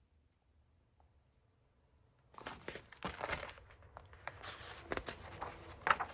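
Paper crinkling and rustling as a book's pages are handled and turned, starting about two seconds in after a short stretch of near silence.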